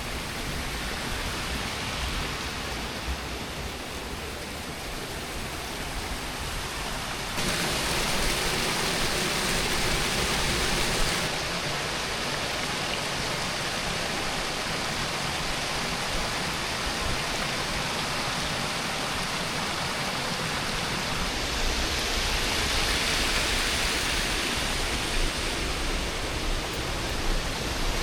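Rushing water pouring over a dam, a steady, full rush. It jumps abruptly louder about seven seconds in and drops back about four seconds later.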